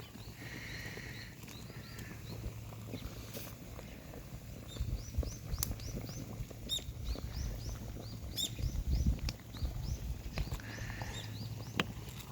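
Bonfire of dried kudzu roots and black nightshade burning, with a few sharp pops over a low steady rumble, and a run of short repeated chirps above it.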